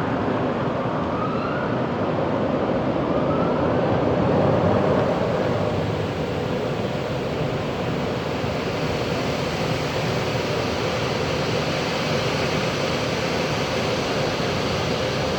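Car wash running: a steady rush of spraying water and machinery, with two faint short rising whines in the first few seconds.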